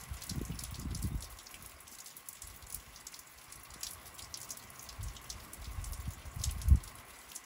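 Rain falling, heard as many scattered drops ticking, with stretches of low rumble and one dull thump just before the end.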